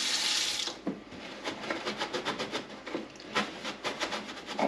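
Water runs briefly from a tap into a plastic fridge drawer and stops. Then a Scrub Daddy sponge scrubs the plastic in quick, repeated rubbing strokes, several a second.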